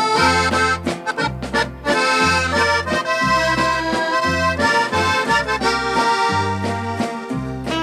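Norteño song's instrumental break between sung verses: a button accordion plays the melody over a low bass line in a steady two-beat rhythm.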